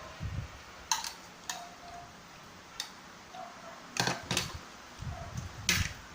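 Eating sounds: scattered sharp clicks, about six of them, with a pair around four seconds in and another near the end.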